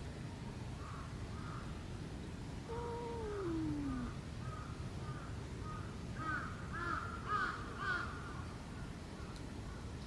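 A cat gives one long meow about three seconds in, falling steadily in pitch. Short high chirps repeat around it and grow busier a few seconds later.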